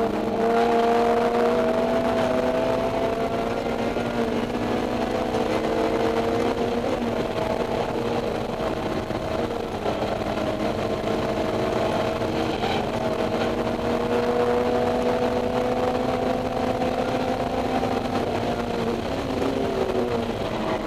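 Honda S2000's four-cylinder VTEC engine through a Mugen header and EVS Tuning 70-SSP exhaust, heard from inside the cabin with the windows open, held at high revs under load on track. The pitch stays nearly steady with a slow climb, then drops near the end as the driver comes off the throttle.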